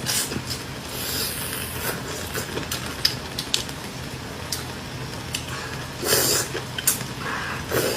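Close-miked eating sounds: chewing and slurping, with scattered sharp clicks of utensils and a louder wet burst about six seconds in, over a faint steady hum.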